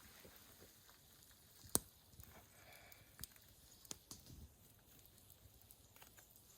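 Near silence with a few faint, scattered clicks and ticks, the sharpest a little under two seconds in.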